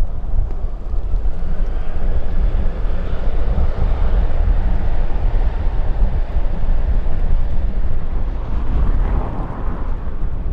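A jet airliner's engines passing as a broad rush that builds, peaks mid-way and fades near the end, under heavy wind buffeting on the microphone.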